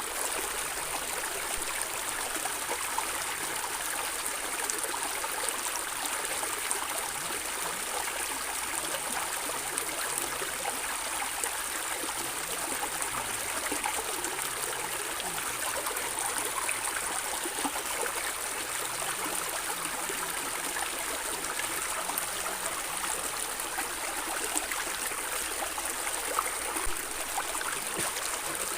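A stream flowing and gurgling over stones, a steady rush of water with small splashes and trickles.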